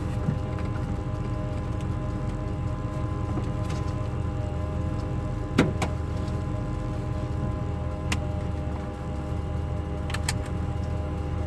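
Turbocharged Chevy small-block V8 running at a steady speed, heard from inside the cab, with a few sharp clicks: the loudest about halfway through and a pair near the end.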